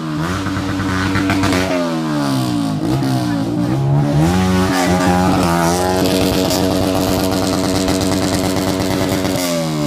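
Motocross motorcycle engine revving: its pitch climbs and falls several times over the first six seconds, then holds steady at high revs until it drops near the end.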